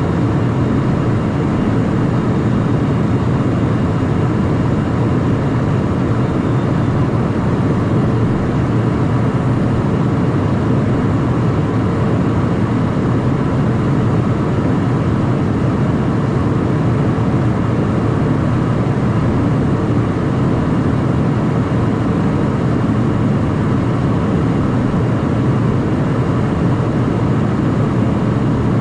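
Steady cockpit noise of a Cessna Citation Mustang's twin turbofan light jet: engine and airflow noise heavy in the low end, unchanging throughout.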